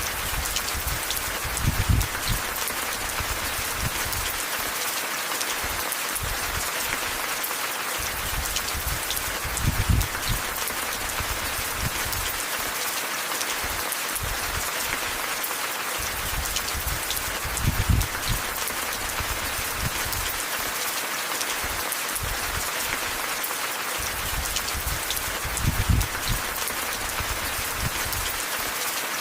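Steady rain falling and pattering, with a short low thud about every eight seconds, four times in all.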